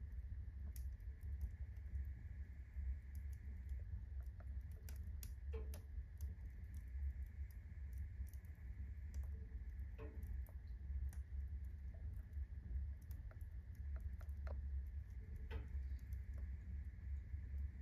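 Wood fire in a fireplace crackling, with irregular sharp pops and snaps from the burning firewood and kindling over a low steady rumble.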